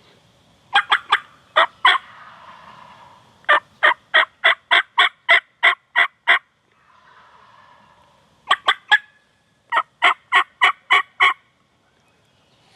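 Turkey yelping: four loud series of sharp, evenly spaced yelps at about four a second, the longest about eleven yelps in a row, with short pauses between the series.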